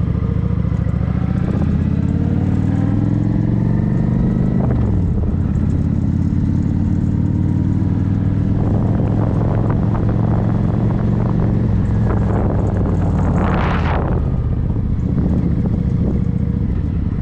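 Kawasaki Ninja motorcycle engine running just after being started, its pitch climbing for the first few seconds, then dropping back and holding steady at idle. A short rushing noise comes about thirteen seconds in.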